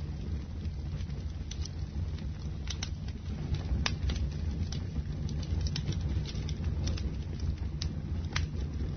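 Bonfire burning: a steady low rumble of the flames, with irregular sharp crackles and pops of the burning wood every half second or so.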